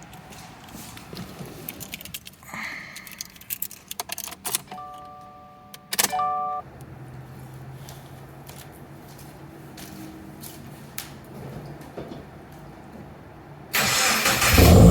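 Keys jangling and clicking, then a short electronic chime about five seconds in and a low steady hum as the Subaru WRX's ignition is switched on. Near the end the starter cranks and the cold engine fires.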